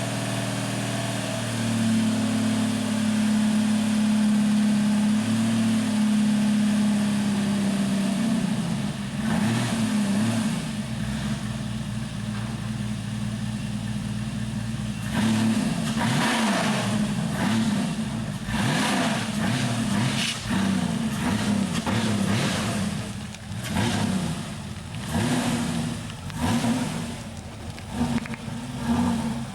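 1994 Porsche 993 Supercup race car's air-cooled flat-six running, held steadily above idle at first. From about halfway the throttle is feathered, so the revs swell up and drop back again and again, keeping the engine running just after a cold start.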